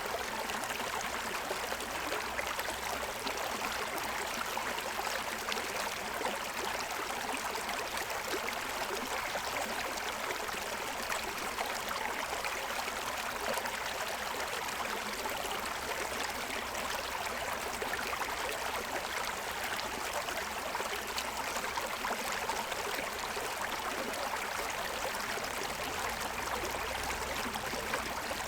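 Forest stream running over the stones of its bed: a steady rush and gurgle of water that holds even throughout.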